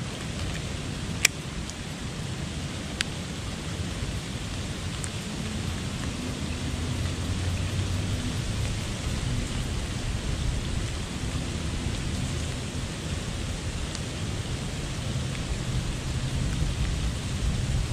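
Steady rain falling on a pond, with a low rumble underneath and two sharp clicks about one and three seconds in.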